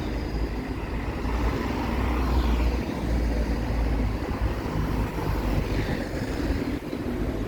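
Diesel bus engine running steadily at idle, a low rumble.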